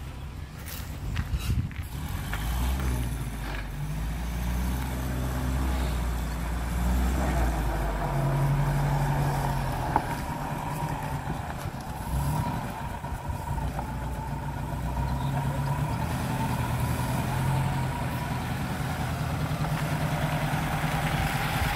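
1935 Morris 12/4's four-cylinder engine running as the car drives slowly, its note shifting a little in pitch, with one sharp click about ten seconds in.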